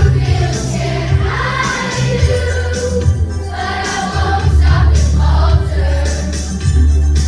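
A children's choir singing a pop song over loud instrumental accompaniment with a strong bass line.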